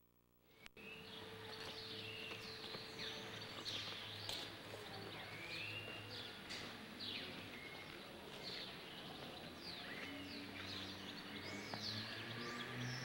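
Many small birds chirping, short quick calls scattered throughout over a faint background. The sound drops out briefly in the first second, and a low hum comes in near the end.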